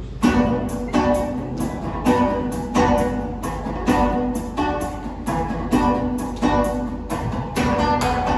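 Music led by a strummed guitar, starting sharply just after the beginning and going on in a steady rhythm of strong strokes, a little under two a second.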